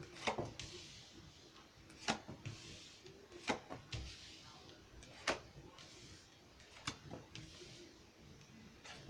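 Tarot cards being shuffled and drawn: a sharp card snap or tap every second or two, with the soft hiss of cards sliding against each other between them.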